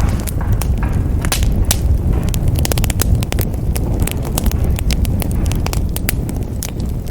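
Wood fire burning in a fireplace: a steady low roar of flames with frequent, irregular sharp crackles and pops.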